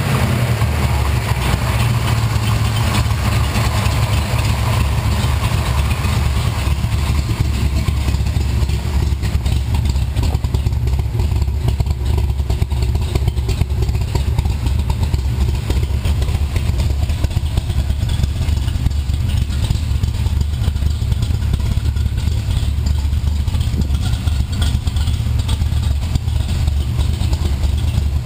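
Big-block 427 V8 of a 1967 Corvette with tri-power carburettors running at a steady idle, a lumpy "plunkety plunk" lope from a high-lift camshaft.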